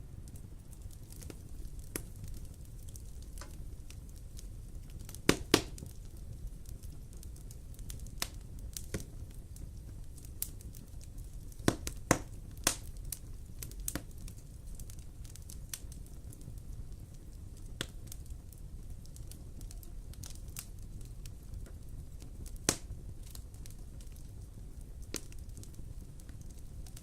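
Wood fire in a fireplace crackling, with irregular sharp pops scattered over a steady low rumble of the flames; the loudest pops come in quick pairs about five and twelve seconds in, with another single one near the end.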